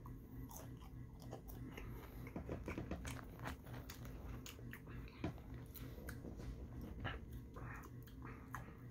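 Close-up chewing of seasoned fries: a run of soft crunches and small wet mouth clicks, fairly faint.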